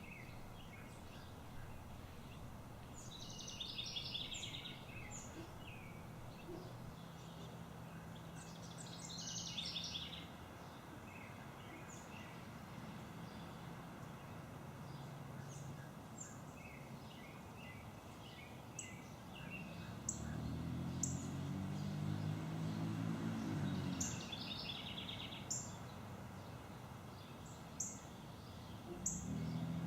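Outdoor ambience with birds singing in a few short chirping phrases. A low hum swells and fades about twenty seconds in.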